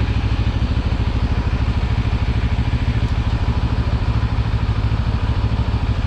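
Benelli TRK700X's water-cooled 693 cc two-cylinder engine idling steadily, with an even, fast pulse and no revving.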